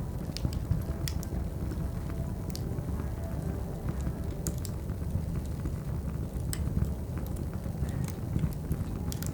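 Wood fire crackling, with sharp pops every second or so over a steady low rumble, mixed over cafe background noise.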